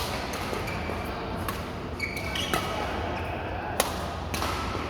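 Badminton rally: sharp racket hits on a shuttlecock about once a second, with short shoe squeaks on the court floor in between, in a reverberant hall.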